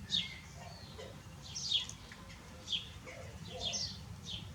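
Birds chirping: short, sharp calls that fall in pitch, about one a second, over a low steady hum.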